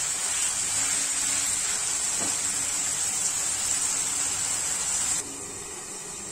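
Chicken pieces sizzling in hot ghee and oil in a pan, a steady hiss. About five seconds in a glass lid goes on the pan and the sizzle drops suddenly to a quieter hiss.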